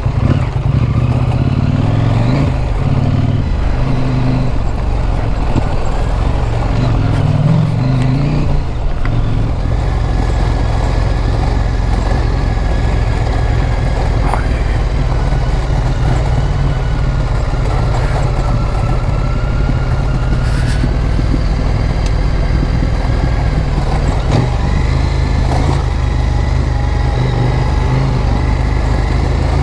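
Motorcycle engine running while riding, with wind and road noise. The revs rise and fall a couple of times in the first ten seconds, then hold fairly steady.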